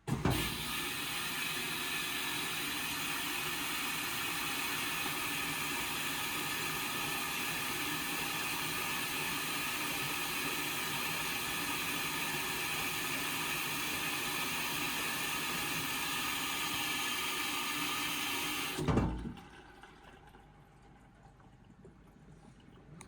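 Indesit washing machine taking in water at the start of an Express wash: a steady rush of water through the inlet valve and detergent drawer starts suddenly, then cuts off after about nineteen seconds as the fill valve shuts, leaving a much fainter sound.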